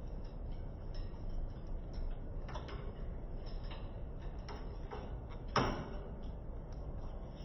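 Light, irregular clicks and taps over a low steady hum, with one sharper, louder click about five and a half seconds in.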